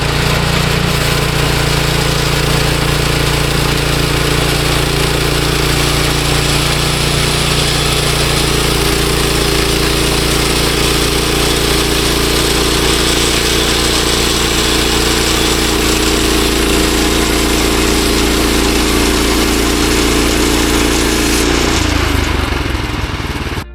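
Bandsaw sawmill's gas engine running steadily at high throttle, with the hiss of the band blade cutting through a walnut log; the engine note falls near the end.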